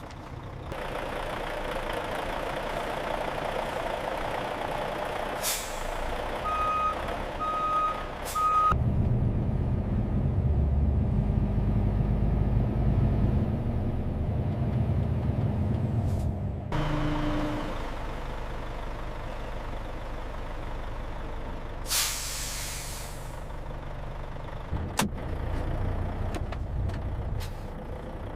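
Semi truck manoeuvring: the diesel engine runs throughout, and three short reversing beeps sound about a quarter of the way in. A heavier low engine rumble follows for several seconds, and a short air-brake hiss comes about two-thirds of the way through.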